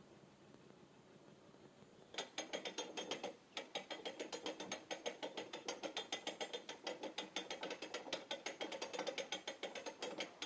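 Canal lock paddle gear being wound up with a windlass, its pawl clicking rapidly over the ratchet as the paddle is raised to let water into the lock. The clicking starts about two seconds in, pauses briefly, then runs on steadily.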